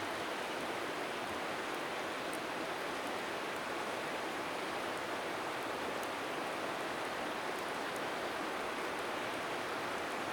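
Steady rushing of a flowing river, with a few faint high crackles from a wood bonfire.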